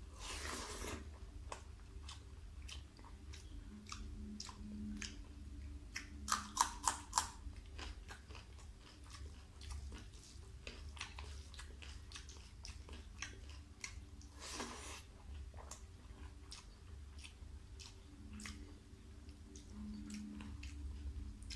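Close-up chewing and wet mouth sounds of a person eating rice and curry by hand, with many small smacks and clicks. A quick run of four louder sharp clicks comes about six to seven seconds in, over a steady low hum.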